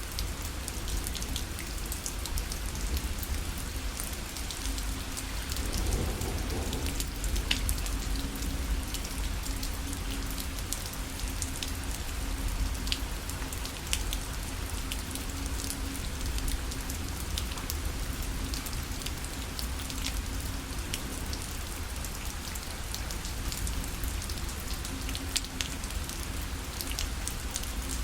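Rain falling steadily on a fabric parasol, with single drops striking it sharply now and then, over a steady low rumble.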